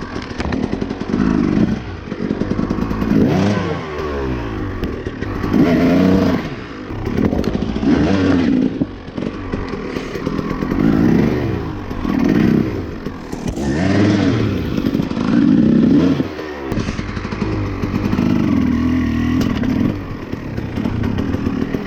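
Dirt bike engine on an off-road ride, its revs rising and falling every second or two as the throttle is opened and closed, with some clattering knocks mixed in.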